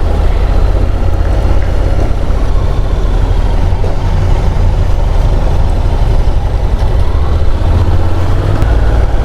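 Honda NC750 DCT motorcycle riding along at road speed: a steady low engine drone under heavy wind rumble on the helmet-mounted microphone.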